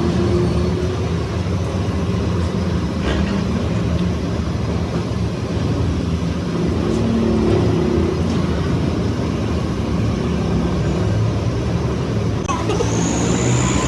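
A motor vehicle engine running steadily, with a brief high whine that rises and falls near the end.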